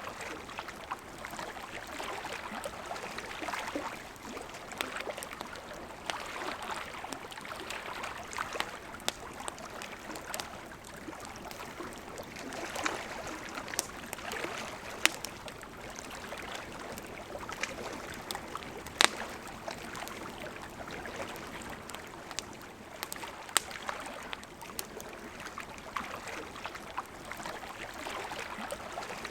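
River water flowing steadily, with a wood campfire crackling over it in sharp, scattered pops, the loudest about two thirds of the way through.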